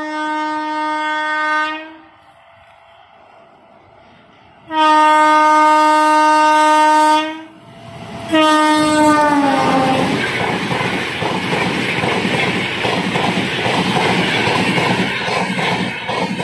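Electric locomotive horn: two steady blasts a few seconds apart, then a third that falls in pitch as the locomotive passes. Then the loud rush of the coaches going by close at speed, with a regular clatter of wheels over the rail joints.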